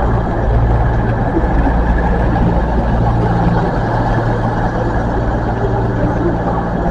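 Diesel train engines running steadily, a constant low engine note with a noisy haze over it.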